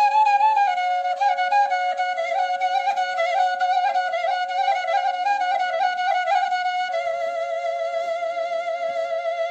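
Traditional folk melody on a reed or flute-like wind instrument over a steady unchanging drone note. Quick ornamented runs in the first half give way, about seven seconds in, to a long held note with vibrato.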